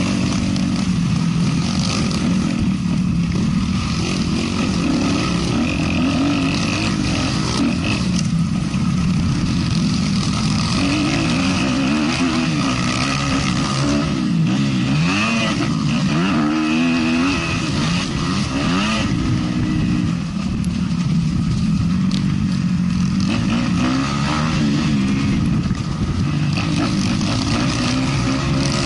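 A 450 motocross bike racing, its engine revving up and falling back again and again through throttle changes, over steady wind and track noise.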